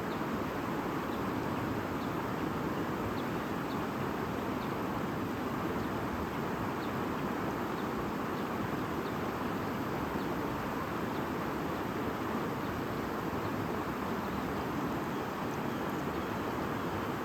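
Stream babbling steadily, with faint short bird chirps now and then above the water.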